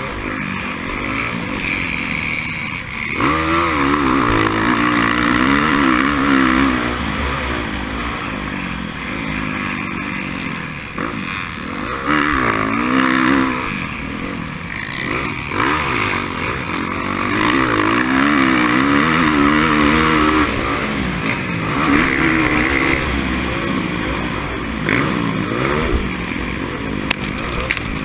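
Racing motorcycle engine under hard use, its pitch climbing and dropping again and again as the throttle opens and closes through gear changes.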